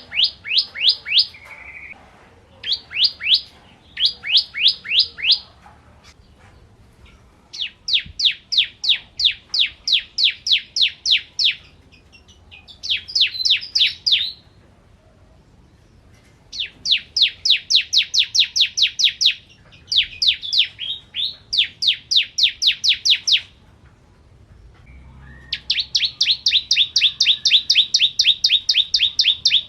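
Bar-winged prinia (ciblek) singing: phrases of rapid, repeated downslurred notes, about four or five a second, lasting one to four seconds with short pauses between them; the last phrase, near the end, runs longer and denser.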